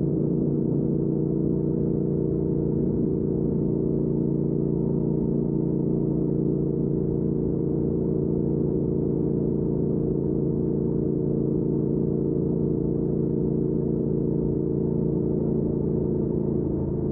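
Triumph Speed Twin 1200's parallel-twin engine, fitted with a Weslake Shorty Pro exhaust, running at a steady cruising speed under light throttle. The pitch holds even, then drops a little near the end as the throttle eases off.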